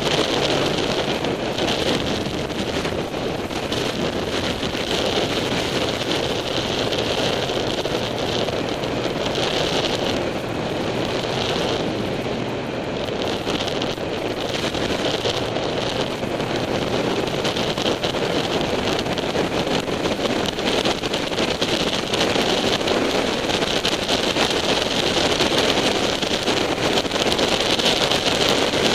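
Wind rushing over a motorcycle-mounted camera microphone at road speed, with a sportbike's engine running underneath; the noise is loud and steady throughout.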